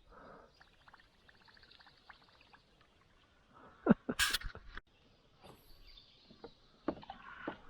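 Casting and working a small topwater lure on an ultralight spinning rod and reel: a fast, fine ticking for a couple of seconds, then a sharp click and a cluster of knocks about four seconds in, followed by scattered clicks.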